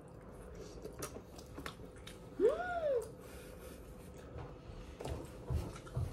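A woman chewing a bite of crisp pork crackling, with a few faint crunches, then one rising-and-falling "mmm" of delight about two and a half seconds in. A few soft low thumps near the end.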